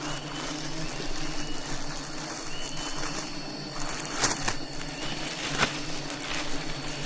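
Honeybees buzzing steadily in a swarm around the hive, with a few sharp clicks or knocks about four and five and a half seconds in.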